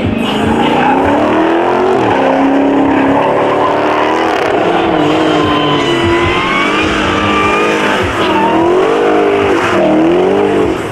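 A muscle car's engine revving up and down hard while its tires squeal, as in a burnout or donuts. The engine pitch swings several times, and a high tire squeal comes and goes in the middle.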